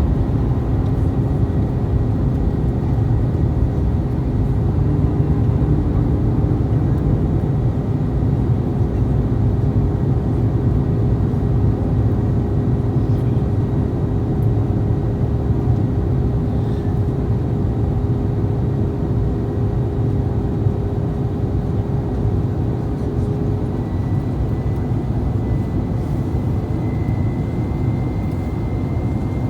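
Airbus A321 cabin noise heard from inside the cabin: a steady low rumble of its IAE V2500 jet engines and airflow, with a faint steady whine that rises slightly in pitch near the end.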